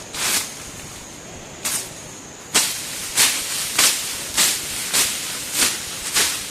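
Ground being swept in repeated short swishing strokes. After a couple of single strokes it settles into an even run of nearly two strokes a second.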